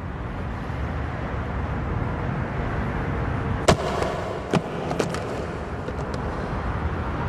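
Steady low rumbling background noise, with a few sharp knocks a little past halfway; the first knock is the loudest.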